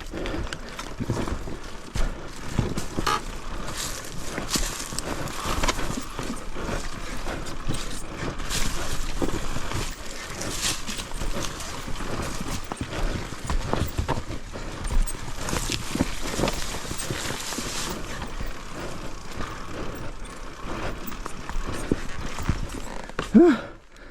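Dirt bike ridden over a rocky enduro trail: a steady clatter of knocks and rattles from the wheels and bike striking rocks, with a short rising pitched sound near the end.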